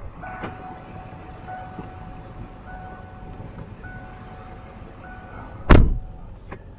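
An electronic beep or chime tone repeating roughly once a second, then a loud thump near the end.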